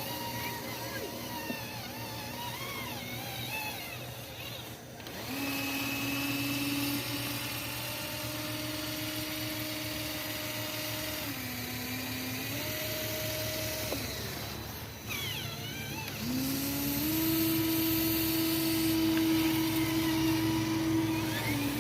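Small electric motors of a radio-controlled construction model whining under load, the pitch stepping down and back up as the controls are worked. The whine breaks off briefly, then comes back with a rising pitch and runs higher and louder near the end.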